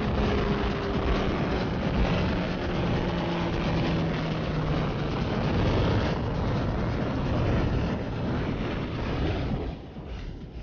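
Sport bike running at speed under heavy wind rush, its engine note falling slowly in pitch over the first few seconds. The sound drops sharply quieter near the end.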